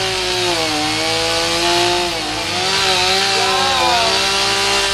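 Chainsaw running and cutting wood, its engine pitch dipping and recovering as the chain loads up in the cut.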